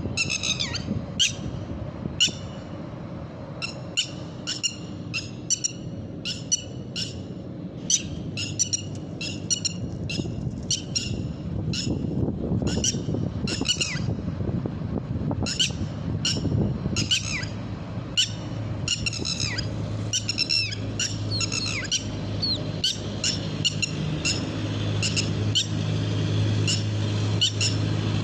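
Red-wattled lapwing calling: sharp, high, repeated calls in quick runs of several notes. A low steady hum grows stronger in the second half.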